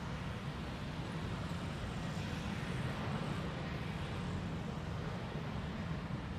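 Jet airliner engines, a steady low rumble with a hiss above it that swells slightly a couple of seconds in.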